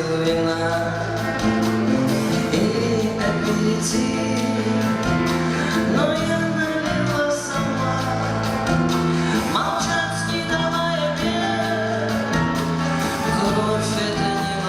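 Live band music at a concert, played loud and steady with sustained chords.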